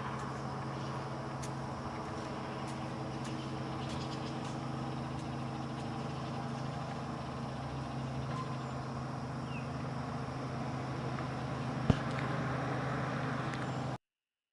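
Steady background traffic rumble with a low hum, a few faint high ticks, and one sharp click about twelve seconds in; the sound then cuts off suddenly.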